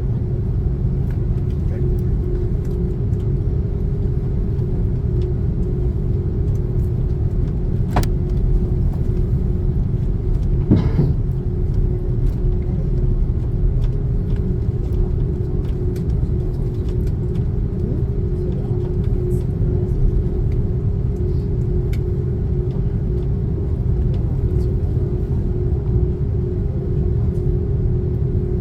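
Airbus A330-300 cabin noise: a steady low rumble from the airliner with a constant hum over it, and a couple of brief knocks, one about eight seconds in and one about eleven seconds in.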